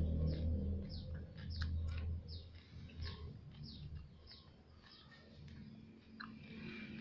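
A bird chirping repeatedly in the background, short notes that each drop in pitch, about two a second. For the first couple of seconds they sit over soft, close chewing sounds.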